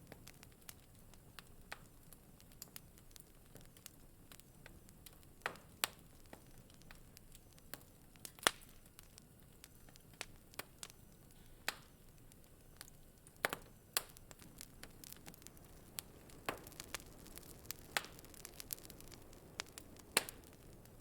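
Wood fire crackling in a fireplace: irregular sharp pops and snaps over a soft, steady hiss, with one louder pop about eight seconds in.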